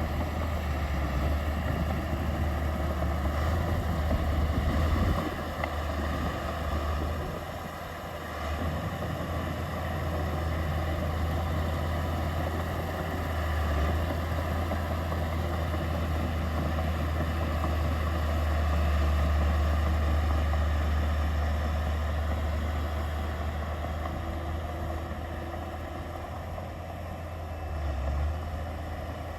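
Heavy diesel construction-machine engine running steadily, its level easing off briefly about eight seconds in and then picking up again.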